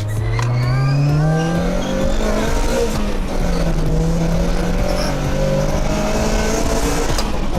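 Honda Prelude's H22A4 2.2-litre VTEC four-cylinder engine accelerating hard, its pitch climbing over the first two seconds, dipping briefly, then holding a steady high note.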